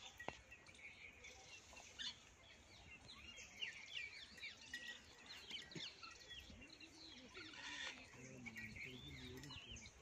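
Faint chirping of small birds, many short quick calls one after another over a quiet background.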